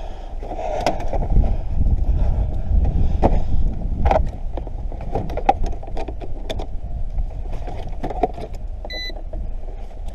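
Low wind rumble on the microphone, with scattered clicks and knocks of handling throughout and one short high beep about nine seconds in.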